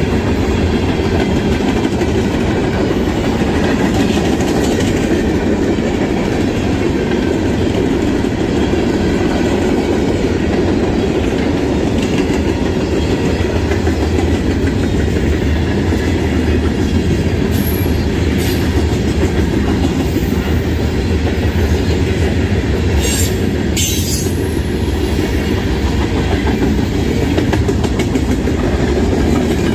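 Freight train of covered hoppers and boxcars rolling past close by: a steady heavy rumble with the wheels clacking over the rail joints, and a few brief high wheel squeals in the latter half.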